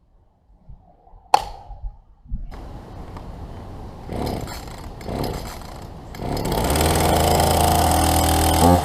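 A chainsaw starting: a sharp click, then the engine catches and idles with a couple of short revs, and about six seconds in it runs steadily at high revs.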